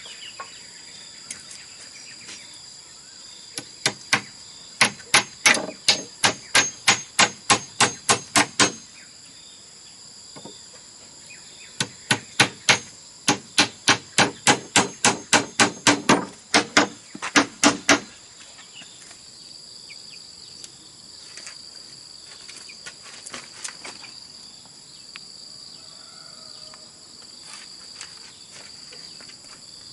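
Two runs of quick, evenly spaced hammer blows on bamboo, about three a second, the second starting a few seconds after the first stops. A steady high drone of insects runs underneath.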